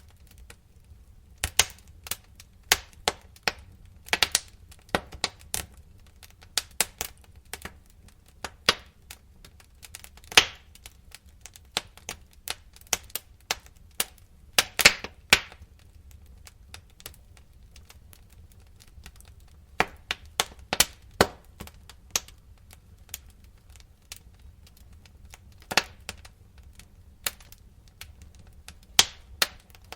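Wood fire in a fireplace crackling, with sharp irregular pops and snaps, some in quick clusters, over a faint low rumble of the flames. There is a quieter stretch with few pops about halfway through.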